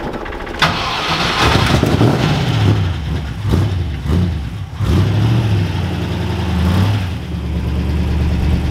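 V8 engine of a Frogeye Austin-Healey Sprite starting up about half a second in and catching, then blipped several times, the pitch rising and falling, before settling into a steady idle near the end.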